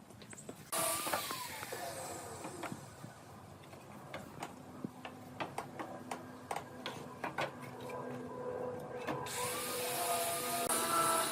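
A handheld electric power tool starts with a sudden whine and hiss, then winds down. Scattered sharp knocks and taps of wood being handled follow, and the tool starts up again near the end.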